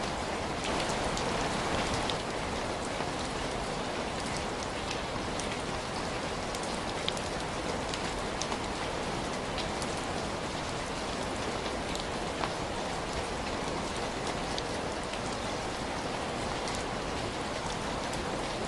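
Steady rain falling, an even wash of noise with many small scattered drop ticks.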